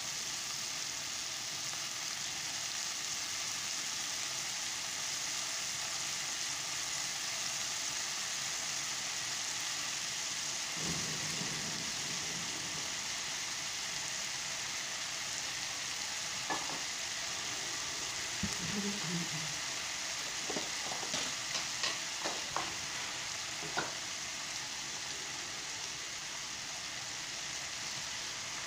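Diced potatoes frying in a nonstick pan: a steady sizzle, with a few light clicks and taps in the middle stretch.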